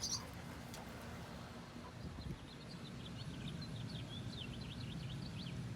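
A small bird chirping in a quick run of short, high notes through the second half, over a steady low outdoor background noise.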